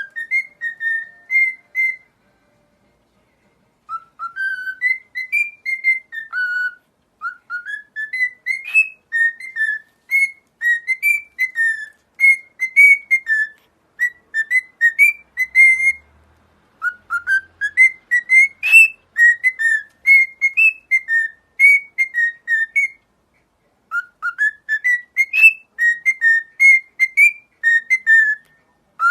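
Cockatiel whistling a learned tune: phrases of short, clear notes that climb and then bob up and down, repeated several times with short pauses between them.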